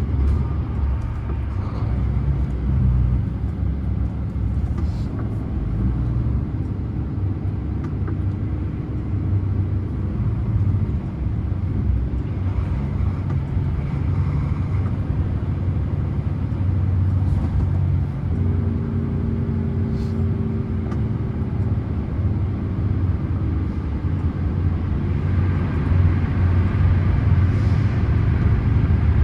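Scania truck running down a mountain highway, a steady low rumble with road noise. A steady droning hum joins in for several seconds past the middle.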